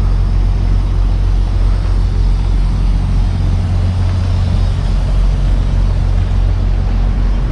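Straight truck's engine running steadily, a constant low rumble.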